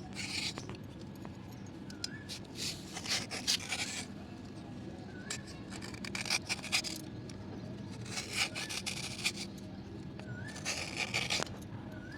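Slate pencils being scraped and rubbed in repeated strokes, each lasting under a second and coming every two to three seconds.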